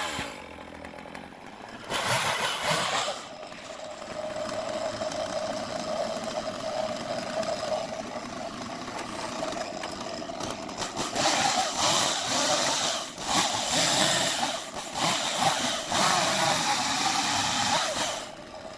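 Stihl chainsaw running between cuts, ticking over at a steady idle with a few louder bursts of revving.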